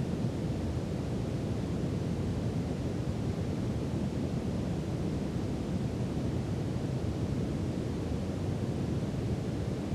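Steady brown noise: an even, deep rushing hiss that is strongest in the low end, with no changes or events.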